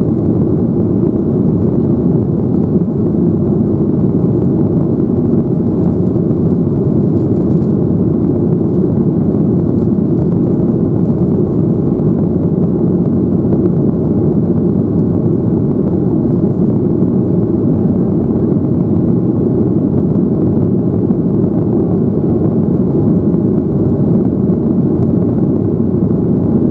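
Boeing 737-800 jet airliner's CFM56 engines running, a steady deep rumble that holds the same level throughout.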